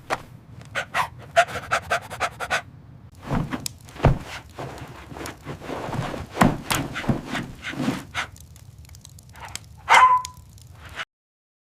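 A dog panting, with a string of short clicks and knocks and a short louder call about ten seconds in; the sound cuts off abruptly just before the end.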